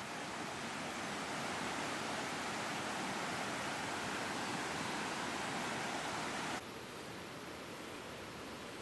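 Steady hiss of rushing water. About six and a half seconds in it drops suddenly to a quieter, duller hiss.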